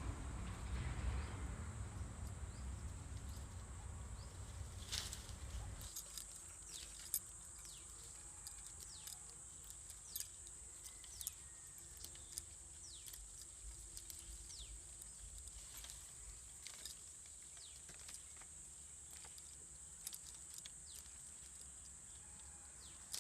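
Faint outdoor ambience: a steady high insect drone with many short falling bird chirps and scattered clicks. A low rumble underneath stops abruptly about six seconds in.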